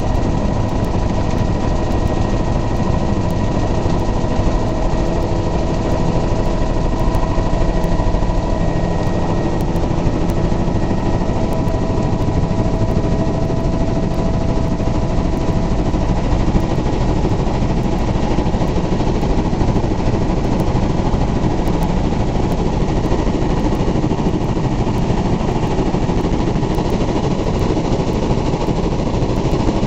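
Helicopter in flight: steady turbine and rotor noise, a dense low rumble with a steady whine on top.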